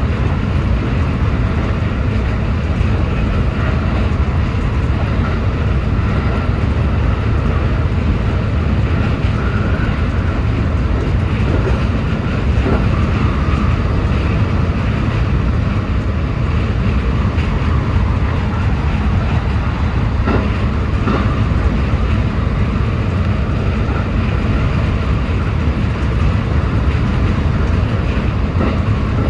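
JR West 223-series electric train running at speed: a steady rumble of wheels on rail and the moving car, heard from the front of the train.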